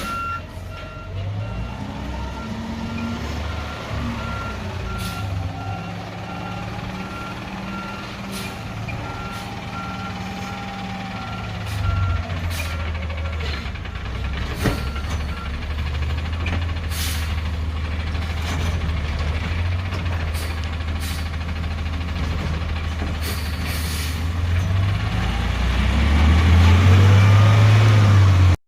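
Garbage truck backing up, its reversing beeper sounding over the diesel engine; the beeping stops about halfway through. Scattered clanks sound over the engine, which revs up and is loudest near the end.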